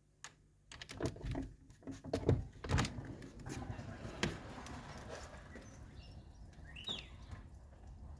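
Irregular knocks and thumps, heaviest about two to three seconds in, over a low rumble, with a short squeak that glides in pitch near the end.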